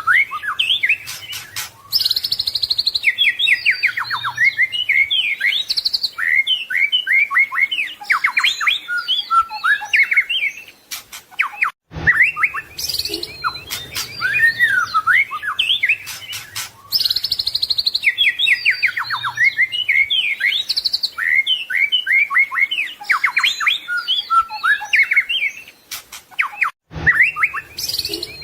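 White-rumped shama (murai batu) singing a rapid, varied song of whistles, slurred notes, trills and chirps. It is a looped passage of about 15 seconds, cut off briefly about 12 seconds in and again near the end.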